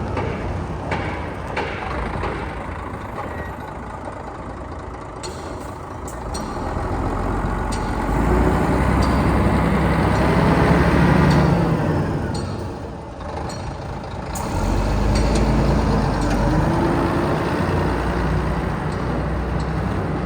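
Scania P124 truck's 12-litre straight-six diesel engine running, its speed rising to a peak about ten seconds in, dropping back, then rising again a few seconds later. A few short clicks come through partway along.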